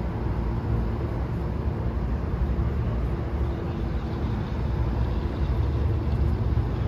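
Steady low rumble with a faint, even hum, unchanging throughout.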